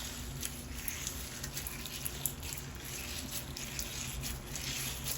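Clear glue slime with pumice stone pieces being squished and pressed by hand, giving scattered small crackles and clicks.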